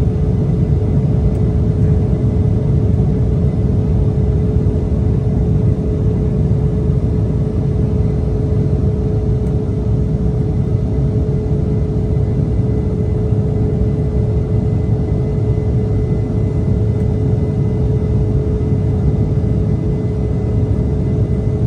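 Steady cabin noise of an Embraer E170 jet in flight, its General Electric CF34-8E turbofans and airflow making a loud, even rumble with a constant hum at one pitch.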